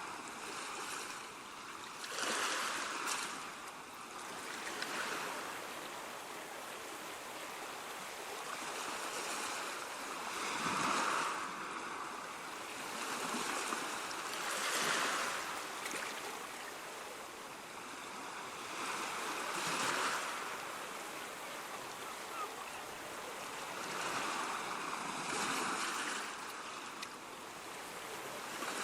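Sea waves breaking and washing on a shore, a steady rush of surf that swells every few seconds as each wave comes in.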